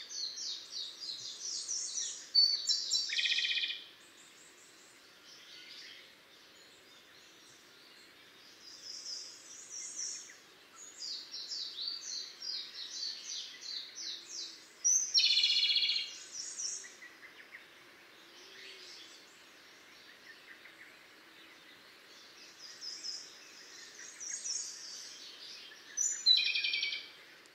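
Japanese robin singing: runs of rapid high twittering notes, each ending in a louder, lower trill, three times about twelve seconds apart.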